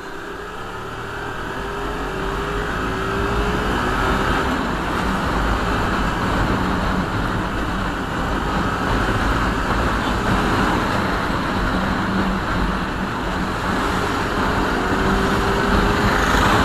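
Hyosung GTR motorcycle on the move, its engine running under a heavy rush of wind and road noise. The rushing builds over the first few seconds as speed rises, then holds steady.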